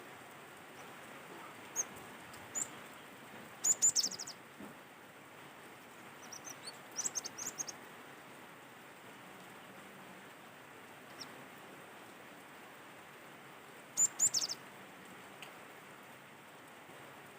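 Cinereous tit (gelatik batu) calling in short bursts of quick, high, chirpy notes, separated by gaps of a few seconds, over a steady hiss of background noise.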